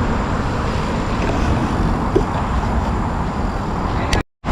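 Steady road traffic noise from a highway flyover overhead, a continuous even rush with a strong low rumble. It drops out abruptly for a moment near the end.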